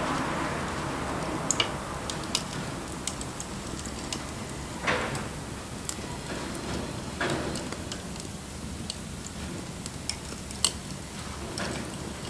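Campfire crackling, with sharp irregular pops throughout and two brief hissing swells about five and seven seconds in.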